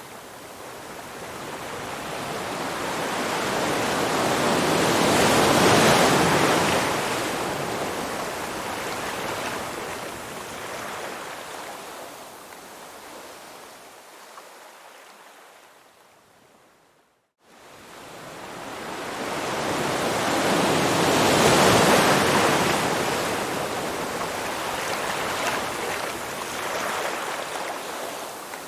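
Rushing water swells up and fades away twice. About two-thirds of the way through there is a sudden drop to near silence for a moment.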